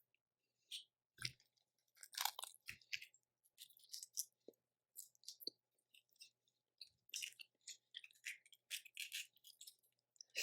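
Eating boiled seafood close to the microphone: a faint, irregular string of small crackles and clicks from chewing and cracking shells.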